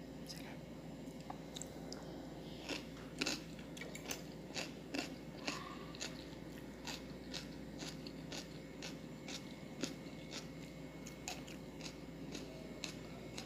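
Close-up chewing and biting of shrimp in sauce, a run of irregular sharp mouth clicks, several a second, with a few louder ones about three to five seconds in.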